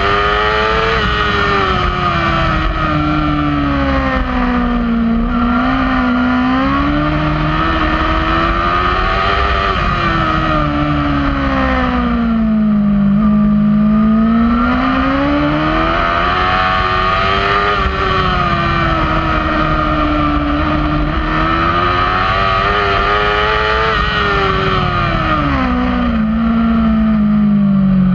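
Kawasaki superbike's inline-four engine at full race pace, heard from on the bike. The engine note climbs as it pulls through the gears and drops away for the braking zones, falling to its lowest pitch three times.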